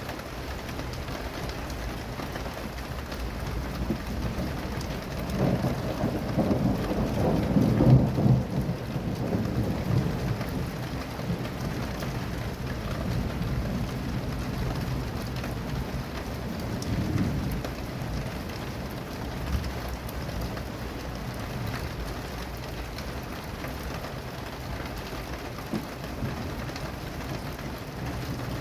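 Steady rain falling, with a long roll of thunder swelling from about five seconds in and peaking near eight seconds, then a smaller rumble a little past the middle.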